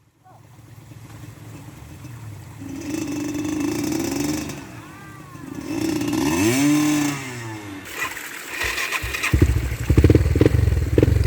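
Trail dirt bike engine revving up and falling back in repeated swells as it is ridden up the trail. About nine seconds in, a much louder engine close by takes over with a rough, pulsing run.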